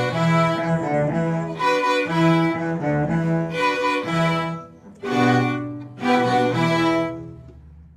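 Orchestra with bowed strings, cellos and basses prominent, playing sustained chords. Two strong chords come in about five and six seconds in, and the last one fades away at the end, closing the piece.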